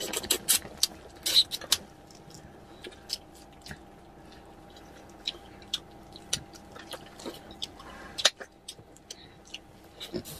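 Close-up eating noises: irregular smacks and clicks of chewing and sucking meat off a salmon head, densest in the first two seconds and again briefly near the eight-second mark.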